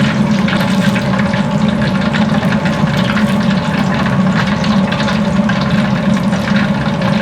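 Hot oil bubbling and crackling as food deep-fries, with many fine crackles over a steady low kitchen hum.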